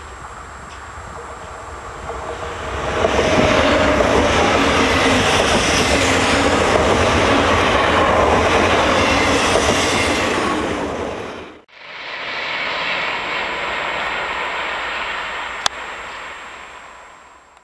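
Renfe Cercanías electric multiple unit passing close at speed: its running noise builds over about a second and stays loud for about eight seconds, then cuts off abruptly. After that comes a quieter, steady noise of a train running further off, with one brief click near the end.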